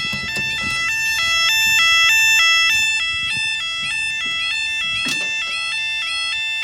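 Level crossing warning alarm sounding, switching back and forth between a higher and a lower tone about three times a second, then cutting off near the end. It has a rough tone, quite rusty.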